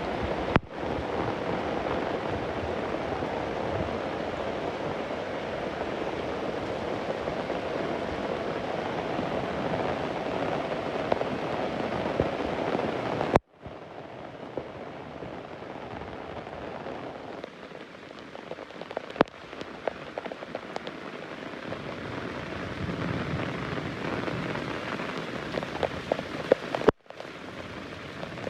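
Heavy rain falling in a steady rush. It cuts out abruptly twice, near the middle and near the end, where separate recordings are joined. After the first cut it is quieter, with single drops ticking.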